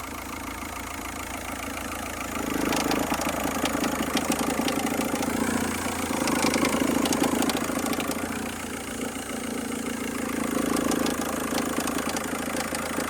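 Car engine idling, then raised gently in three slow swells of throttle from about two seconds in, with light clicking over the engine sound: the strange engine noise being hunted for, its source not yet found.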